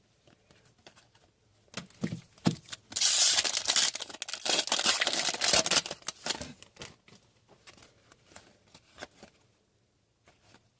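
Foil wrapper of a hockey card pack being torn open and crinkled: a few light ticks, then about three seconds of loud tearing and crinkling, then a few small handling ticks.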